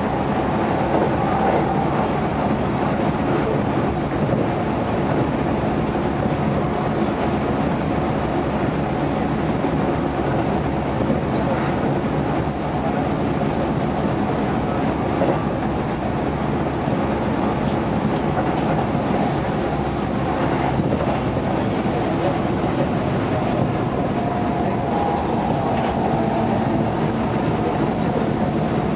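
Keihan Main Line electric train running along the track, heard from inside the front car: a steady rumble of wheels on rail under a steady hum, with a few clicks over rail joints.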